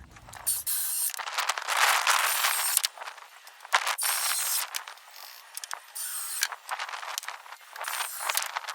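Milwaukee battery-powered chainsaw run in several bursts of about a second each, its chain whirring with a high motor whine and stopping between runs.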